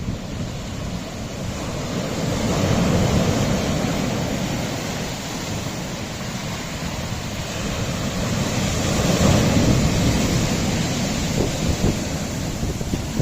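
Sea waves washing against a rocky shore, swelling up twice and easing back in between, with some wind on the microphone.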